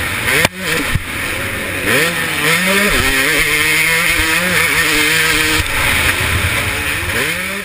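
KTM 250SX two-stroke motocross engine revving hard, its pitch climbing and dropping again and again as the throttle opens and shuts and the gears change. It is heard close up from an onboard camera with wind rush, and there is a sharp knock and a brief cut in the engine about half a second in.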